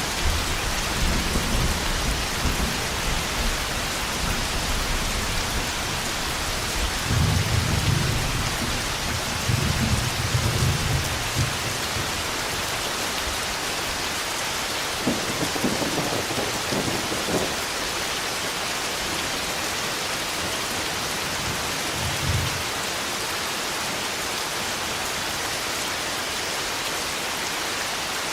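Steady rain pouring, with thunder rumbling low several times through the first twelve seconds, a sharper crackling peal near the middle, and one short rumble a little later; after that only the rain.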